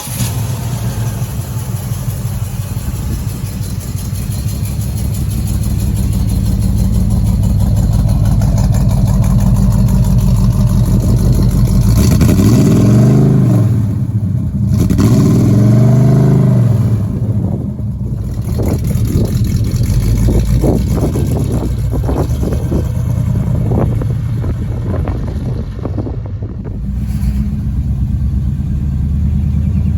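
The 1967 Buick GS 400 Stage 1's 400-cubic-inch V8 running, revved up and back down twice about halfway through, then given a series of quick throttle blips.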